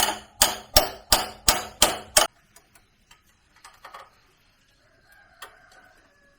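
Hammer striking metal about three times a second, each blow clanging with a short ring, then stopping a little over two seconds in. Faint ticks and a faint held call follow.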